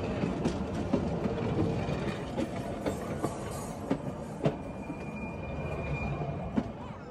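Excursion train rolling directly over a phone lying between the rails: the cars' wheels and undercarriage make a continuous rumble, broken by repeated irregular clacks and knocks. A thin high tone is held for about a second and a half, about five seconds in.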